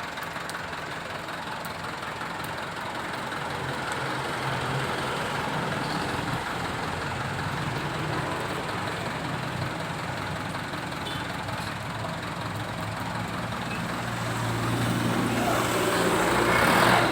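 Truck engine running steadily, growing louder over the last few seconds.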